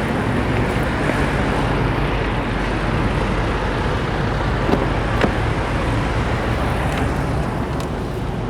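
Steady low vehicle rumble with a constant low hum, and a couple of faint sharp clicks around the middle.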